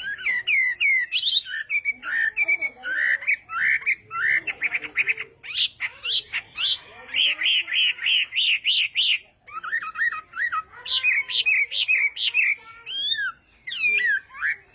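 Chinese hwamei (Garrulax canorus) singing a long, varied song of rapid repeated notes, slurred whistles and trills, with a short break about nine and a half seconds in.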